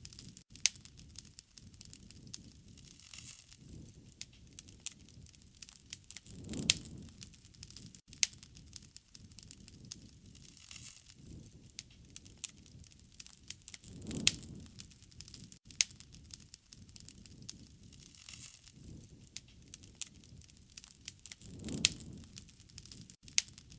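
Wood fire crackling with frequent sharp pops, and a low rushing swell of flame about every seven and a half seconds.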